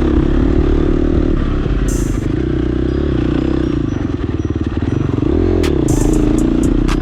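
KTM 350 dirt bike's four-stroke single-cylinder engine running while ridden on a trail, its pitch moving with the throttle, with a quick rev up and back down about five and a half seconds in. A few sharp knocks and rattles from the bike over rough ground come through.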